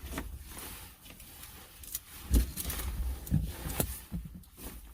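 Rustling and knocks inside a car as a cover is pulled down to black out the windows, with a low thump about two and a half seconds in.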